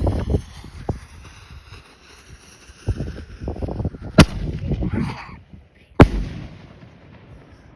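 4-inch Screaming Hawk firework rockets bursting: two sharp, loud bangs about two seconds apart, with rumbling and popping around the first.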